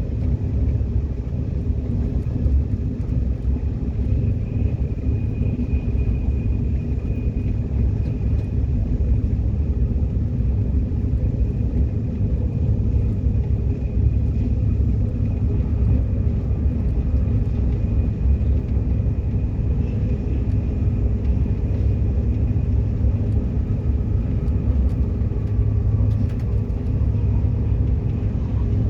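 Subway train running, heard from inside: a steady low rumble of wheels on the track, with a faint high whine that is clearest in the first third.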